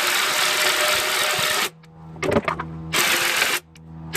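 Impact wrench hammering on the 21 mm crankshaft pulley bolt in two loud bursts, the first about a second and a half long, the second shorter, with a brief clatter between them.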